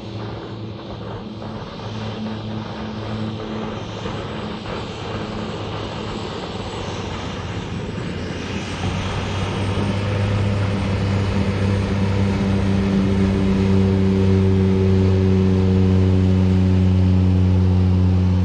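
An engine drones at a steady pitch and grows louder about halfway through, as if coming closer.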